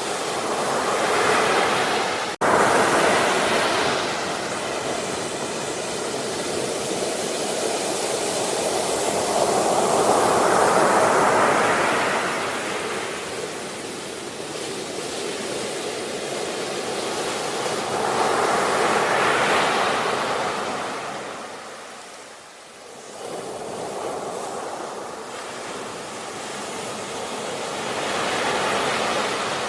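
Ocean waves breaking and washing up the shore in slow surges, one swell about every eight seconds. The sound cuts out for an instant about two seconds in.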